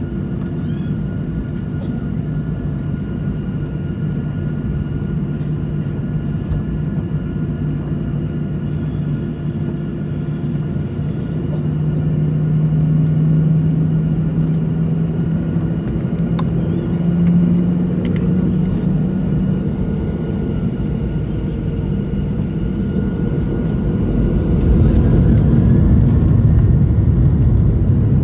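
Jet airliner noise heard from inside the passenger cabin: a steady drone with several held whining tones. It grows louder, with a deeper rumble, about 24 seconds in.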